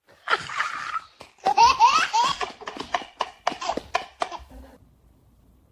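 High-pitched laughter: a short burst, then a quick run of giggles that dies away about four and a half seconds in.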